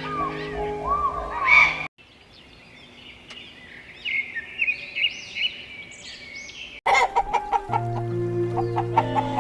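Chickens clucking and calling in short, high, repeated calls, between two abrupt cuts. Background music with steady tones plays before and after them.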